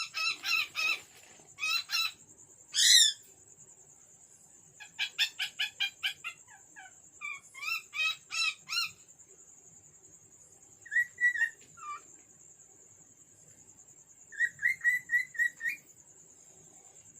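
Cockatiel whistling and chirping in about six bursts of quick repeated notes, with pauses between them.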